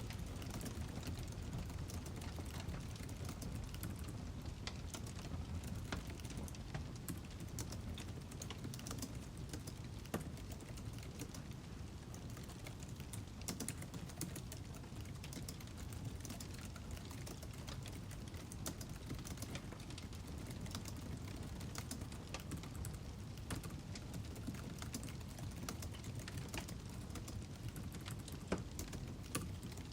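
Wood fire crackling: irregular sharp snaps and pops over a steady low background.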